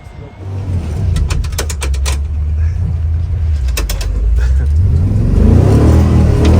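Off-road truck engine running under throttle, its revs climbing from about five seconds in, with several sharp clicks or knocks in the first few seconds.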